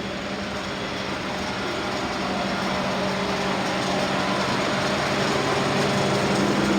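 Steady mechanical drone with a constant low hum, like an engine or fan unit running, slowly growing louder.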